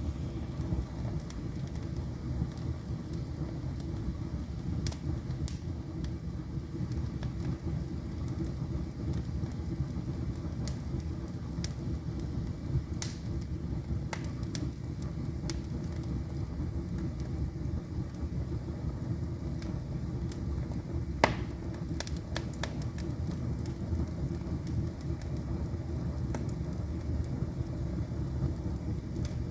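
Wood fire burning in a fireplace: a steady low rumble of the flames with scattered sharp crackles and pops, the loudest pop about two-thirds of the way through.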